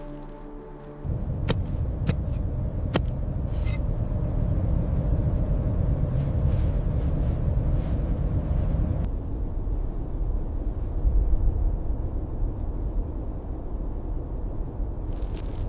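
Blizzard wind buffeting the microphone: a loud, steady low rumble setting in about a second in, with a few sharp clicks soon after.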